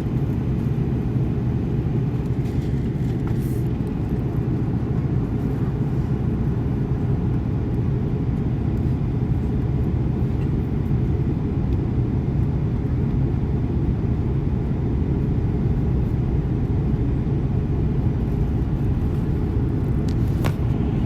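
Steady cabin rumble of an Airbus A330-200 in flight, heard from a window seat: engine and airflow noise, low and unchanging.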